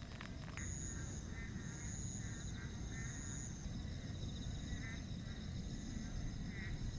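Outdoor nature ambience: a steady low rush under insects' steady high buzzing, with short chirping animal calls repeated irregularly. It begins abruptly about half a second in, replacing a crackling sound.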